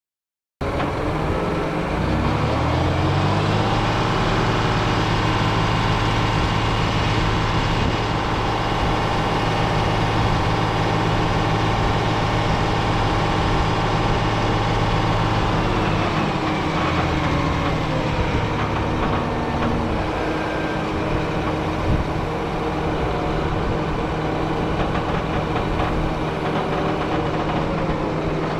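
John Deere 670G motor grader's diesel engine running, revving up about two seconds in and holding steady, then dropping to lower revs past the halfway point.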